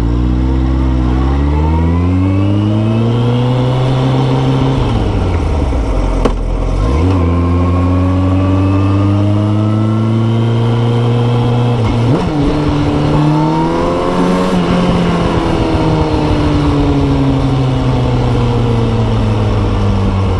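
Kawasaki ZX14r's inline-four engine through a Yoshimura exhaust, under way at speed. The engine note climbs as it accelerates and drops sharply twice, about six and twelve seconds in. It climbs again, then falls slowly over the last several seconds as the bike eases off.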